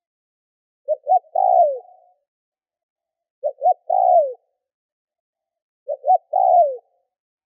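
Spotted dove cooing three times. Each phrase is two short coos followed by a longer coo that slides down in pitch. The song is the kind used as a decoy call to provoke wild doves.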